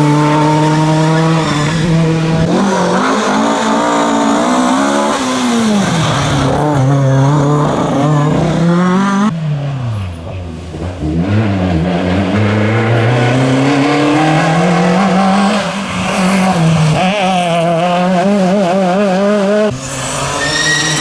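Rally car engines at full throttle, the pitch climbing and dropping again and again through gear changes and lifts off the throttle. The sound changes abruptly about nine seconds in and again near the end, as one car gives way to the next.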